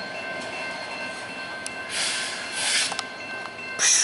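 Loaded BNSF coal train rolling past: hopper cars running by at a crossing, with louder hissing surges about halfway through and near the end as a locomotive comes past. Steady high ringing tones, likely the crossing bell, sound the whole time.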